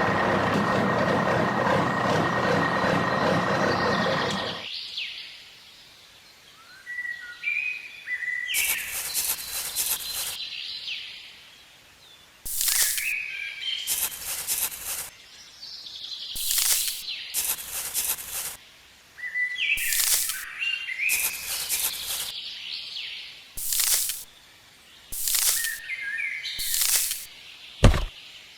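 A loud, steady mechanical-sounding noise cuts off abruptly about four and a half seconds in. Bird-like chirps follow, each with a short hissing rush, repeating every second or two, and there is a single low thump near the end.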